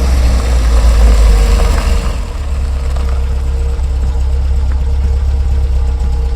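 A car engine idling steadily, a deep low rumble with a steady hum above it, a little louder for the first two seconds.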